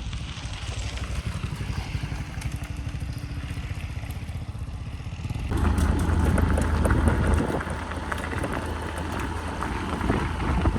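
An engine running steadily, which turns suddenly louder and noisier about five and a half seconds in.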